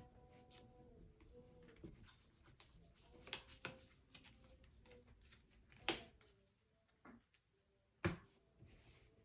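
Quiet room with a few scattered sharp taps and clicks, trading cards being handled and set down on the table.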